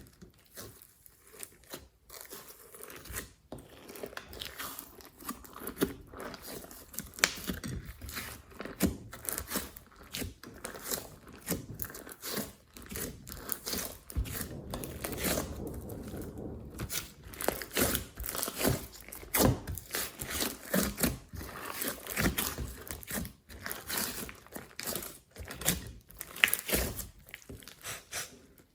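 Slime being squished, stretched and kneaded by hand, giving a continuous run of small crackles and pops.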